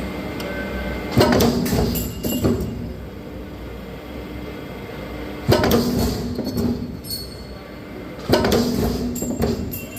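Steel strap being cut into gusset pieces with a power cutting tool: three cuts, each starting abruptly and lasting about a second and a half, with a whine and metallic grinding.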